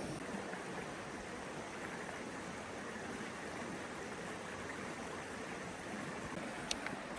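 River water flowing steadily, with one sharp click near the end.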